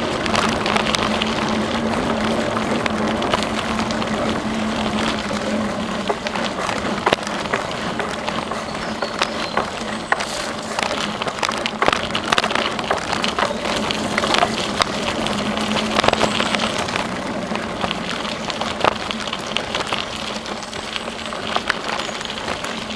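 A bicycle being ridden along a trail: a steady rush of tyre and riding noise with frequent sharp clicks and rattles, and a low hum that fades in and out twice.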